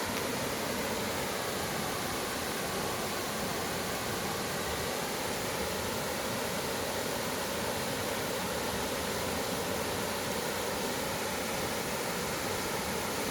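Steady, even rush of a mountain valley stream's flowing water.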